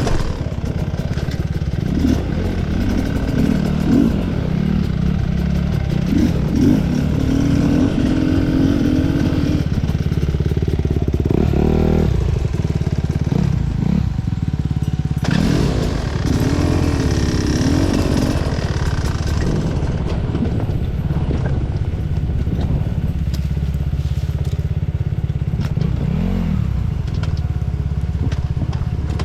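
Off-road enduro motorcycle engine under a rider's throttle, its pitch rising and falling as it revs up and drops back over and over, with scattered clattering knocks from the rough trail.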